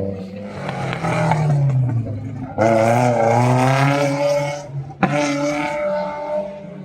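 Race car engines running hard on a street circuit, their pitch rising and falling as they accelerate and shift. The sound swells suddenly about two and a half seconds in, with a sharp crack about five seconds in.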